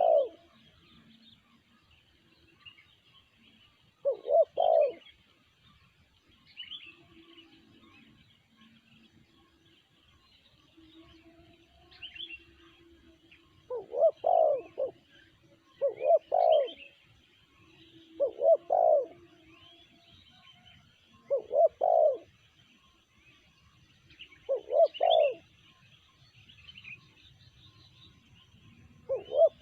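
Spotted dove (tekukur) cooing: a short low coo phrase about every two to three seconds, after a long pause early on. Small birds chirp faintly throughout.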